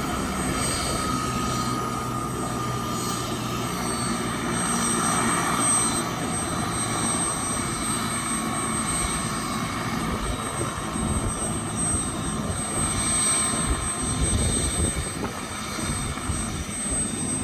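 Helicopter turbine and rotor running steadily: a constant drone with a thin high whine over it.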